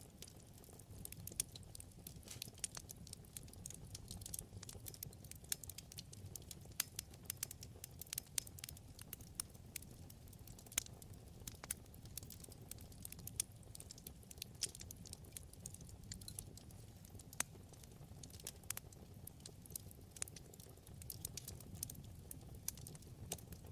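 Wood fire crackling: many irregular sharp pops and snaps over a soft steady low rumble of burning flames.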